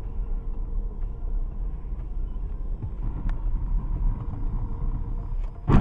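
Steady low rumble of a car driving, heard from inside the vehicle, with a sudden sharp thump near the end.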